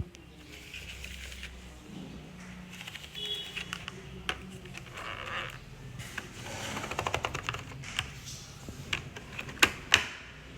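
Art supplies handled in an art kit: rustling and scattered clicks, a quick rattle of small clicks partway through, and two sharp clicks near the end.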